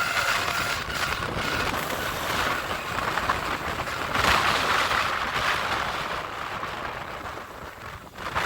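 Passenger train carriage rolling along the track: steady wheel-on-rail and running noise, with a thin high squeal that fades out about a second in and a louder stretch about halfway through.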